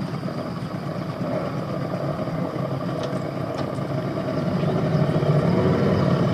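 A boat engine running steadily, getting a little louder past the middle.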